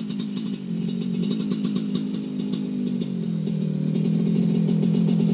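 Dirt bike engine running at low, fairly steady revs, growing gradually louder, with a slight drop in pitch about three seconds in.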